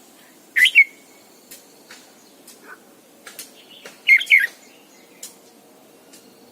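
Red-whiskered bulbul singing: two short, loud warbled phrases, one just under a second in and another about four seconds in, with scattered short faint chirps between.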